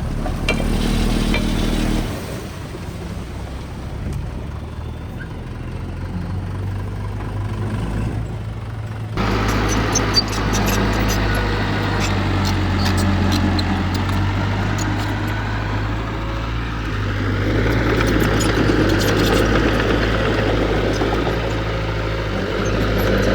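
Heavy diesel engine of earth-moving equipment running steadily, its sound changing abruptly about two seconds and again about nine seconds in, with faint clicks and rattles over it in the later part.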